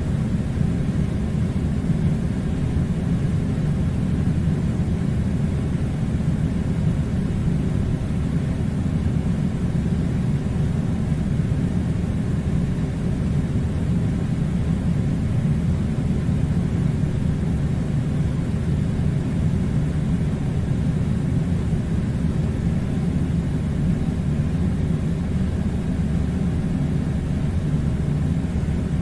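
Air conditioner running: a steady, unbroken low rumble and hiss that does not change.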